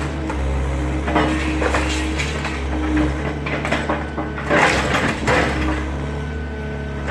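Excavator engine running steadily while debris from a garage being demolished crunches and clatters in irregular bursts, the loudest about two-thirds of the way through.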